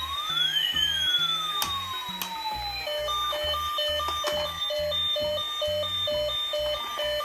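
A toy emergency vehicle's electronic siren: a wail sweeping up and down in pitch, switching about three seconds in to a pulsing tone that repeats about twice a second. Background music with a steady bass line runs underneath, with a few sharp clicks.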